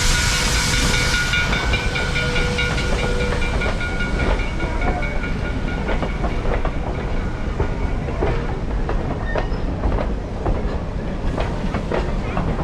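Vintage steam train of the 1880 Train (Black Hills Central Railroad) rolling by, its cars' wheels clicking over the rail joints. A loud hiss cuts off about a second in, and a few faint steady tones fade within the first few seconds.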